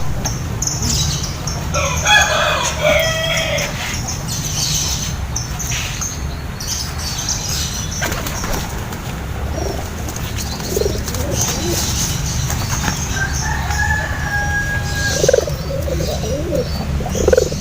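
Pigeons flapping their wings, with birds calling several times over a steady low hum.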